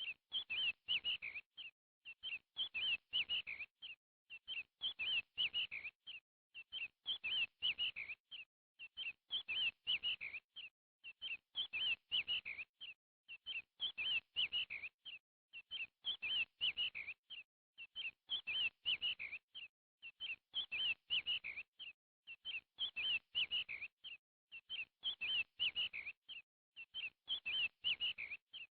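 Small bird chirping in short bursts of quick, high chirps, each burst nearly identical and repeating about every two seconds with silent gaps between.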